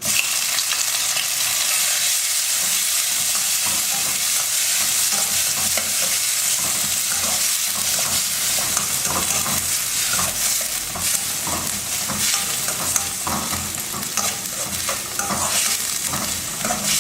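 Coarsely pounded onion and dried red chilli frying in coconut oil in a pan, sizzling steadily while a spoon stirs and scrapes through it.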